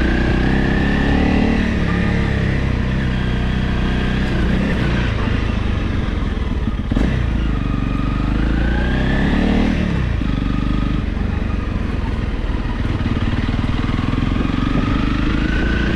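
Honda CRF Rally single-cylinder dual-sport motorcycle engine running under way, its pitch rising and falling several times with the throttle and gear changes. A single short knock about seven seconds in.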